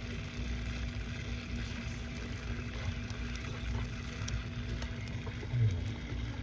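Wood fire burning in a traditional Korean agungi firebox: a steady low rumble with scattered faint crackles.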